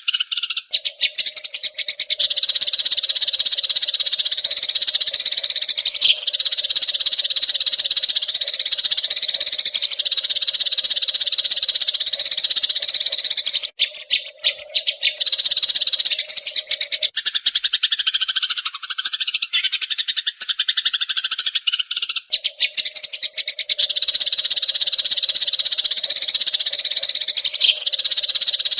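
Wild Eurasian tree sparrows chattering in a long, fast, unbroken rolling chirp. A steady low tone runs underneath, dropping out for a few seconds past the middle.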